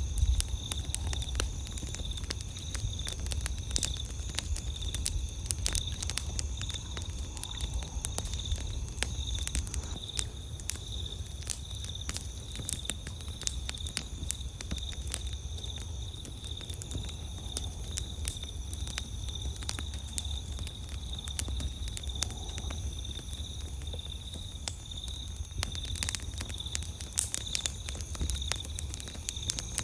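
Wood campfire crackling, with frequent sharp irregular pops, over a steady high chirring of night insects and a low rumble underneath.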